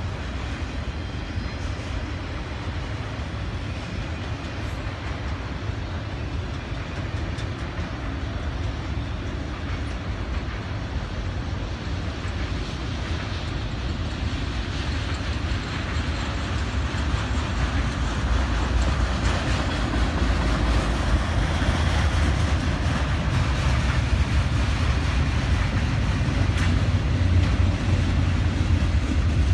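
Freight train cars rolling past on the rails: a steady rumble of steel wheels with clicking over the rail joints, growing louder toward the end.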